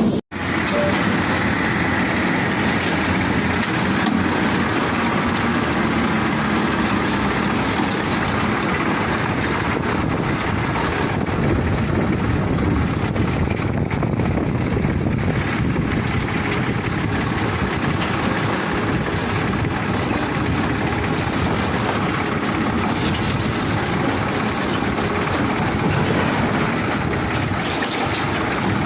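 Powertrac 439 tractor's three-cylinder diesel engine running steadily.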